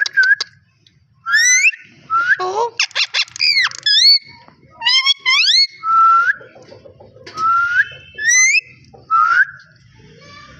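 Ringneck parrot whistling: a string of short, mostly rising whistles, some rising then dipping, with a quick run of clicking chirps partway through.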